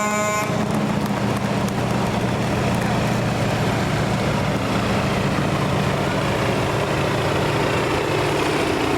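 A large truck or tractor engine running steadily. A horn blast stops about half a second in.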